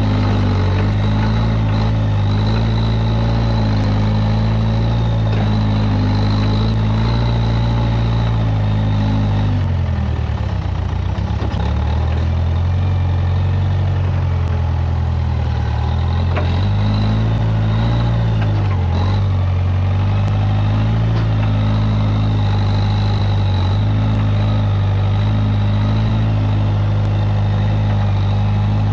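Case 580G backhoe loader engine running steadily. Its note dips and wavers for several seconds about a third of the way through, then returns to the same steady pitch.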